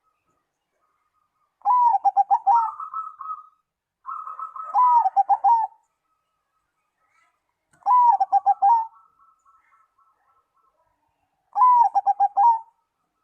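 Zebra dove (perkutut) cooing: four phrases a few seconds apart, each an opening note followed by a quick stuttering run of short coos.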